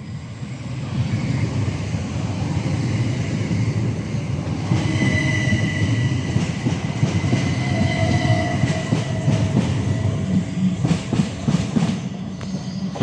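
Class 375 Electrostar electric multiple unit running through the station with a steady low rumble. A high-pitched wheel squeal sets in about five seconds in and lasts several seconds, and near the end a quick run of clicks comes from wheels passing over rail joints.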